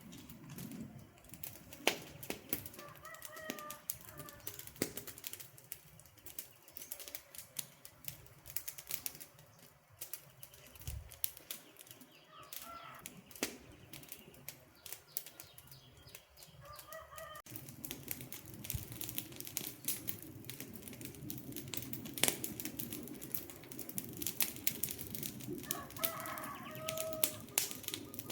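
Wood fire crackling with irregular sharp pops, and a low rush of flames that grows louder about two-thirds of the way in. Short bird calls come four times.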